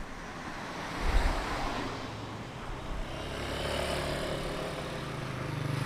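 Tuned 115cc motorcycle engine running, its hum getting louder toward the end, with a short low thump about a second in.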